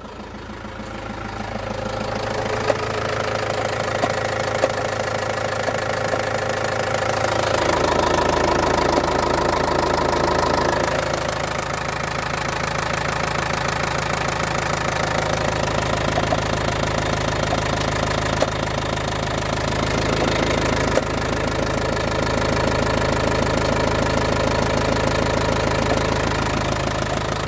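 Opel 2.5 CDTI common-rail diesel engine running, fully rebuilt 10,000 km earlier, with the strange noise its owner is trying to pin down. The sound builds up over the first couple of seconds, grows a little louder for a few seconds near the middle, and a sharp single click stands out now and then.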